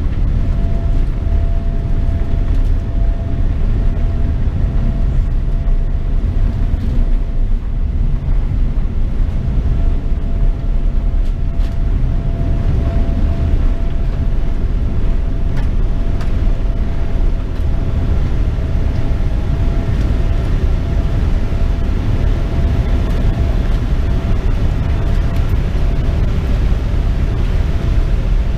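Cabin noise of a Boeing 787-10 at takeoff power: a steady, loud rumble from the jet engines and rushing air, with a faint steady hum running through it.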